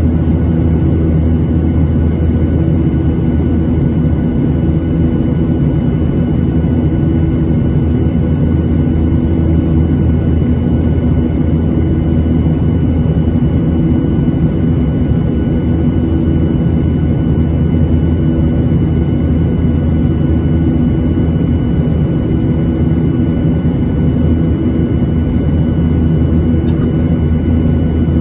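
Steady jet engine noise and airflow rumble inside the cabin of a Boeing 737-800 with CFM56-7B engines, a constant low rumble with a few steady whining tones above it.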